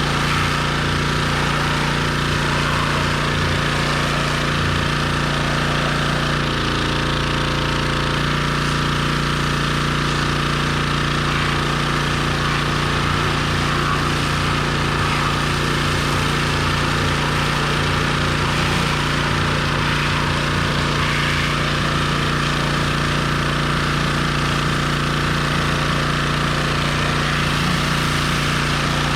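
A pressure washer's petrol engine running steadily at a rough, even pulse, with a brief change in its note about seven seconds in.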